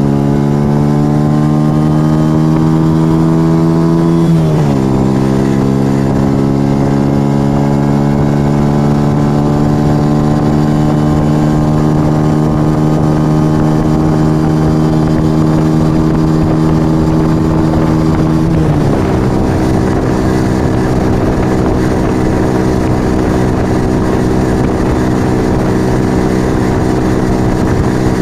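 A 1997 Yamaha XV125 Virago's small V-twin engine through a Turbo Kit aftermarket exhaust, pulling under acceleration with its pitch slowly rising. The pitch drops sharply about four seconds in and again near two-thirds of the way through, as it shifts up a gear, then holds steady at cruising speed. Wind noise runs underneath.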